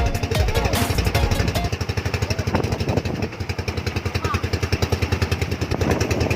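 A small engine running at a steady speed, with an even fast throb of about ten beats a second. A louder, fuller layer of sound over it stops about a second and a half in.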